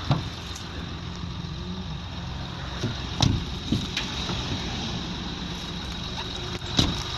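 Ford Territory SZ's 2.7 V6 turbo diesel engine idling steadily, with a few short thumps over it.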